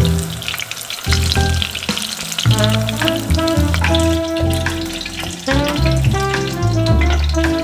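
Tofu-skin shrimp rolls sizzling and crackling as they pan-fry in shallow oil, with background music playing alongside.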